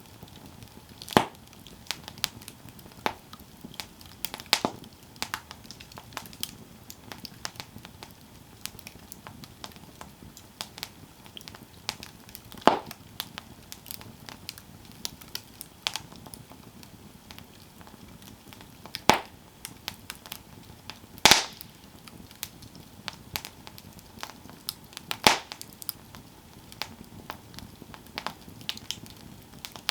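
Campfire burning with irregular crackles and sharp wood pops over a low steady hiss, the loudest pops at about a second in, near the middle and a few seconds before the end.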